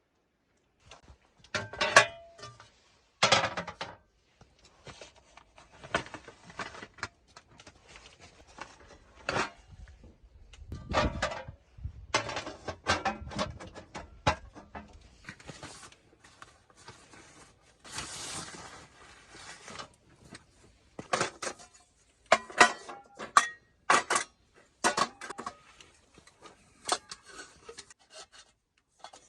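Camp gear being handled by hand: irregular knocks, clinks and short scraping and rubbing sounds. The sharpest knocks come about two and three seconds in and in a cluster past the twenty-second mark.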